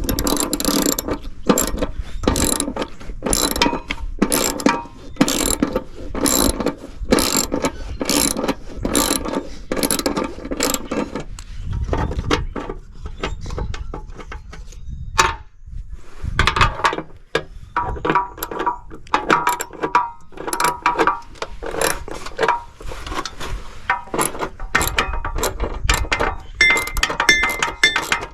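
Hand ratchet wrench clicking in repeated strokes, working a large nut loose on an air conditioner condenser's compressor mount. The clicking pauses for a few seconds midway, with a single knock, then starts again.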